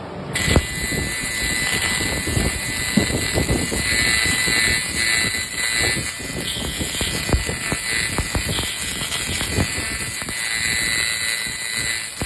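AccTek AKQ-1000 fiber laser cleaning machine switching on about a third of a second in and running steadily. A high hiss with a thin steady whine sits over a dense, irregular crackle as the laser strips grime from an engine.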